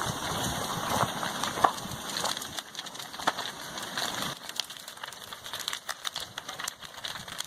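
Crackling and snapping of a wooden house burning as a lava flow engulfs it, many small irregular cracks over a steady hiss.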